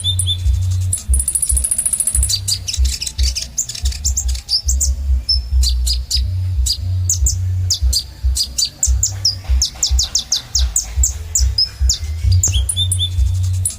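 Kolibri ninja sunbird singing: rapid high chirps and sharp trills, with a buzzy high trill about a second in. A low, broken rumble runs underneath.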